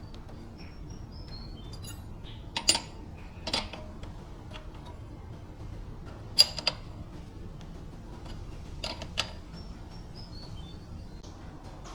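Metal parts being handled: about half a dozen sharp metallic clinks and taps at uneven intervals, the loudest about six seconds in, over a low steady background rumble. Faint bird chirps come early on and again near the end.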